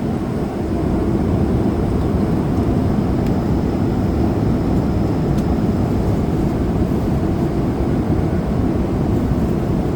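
Airliner cabin noise in flight: the steady low rumble of jet engines and airflow heard from inside the passenger cabin.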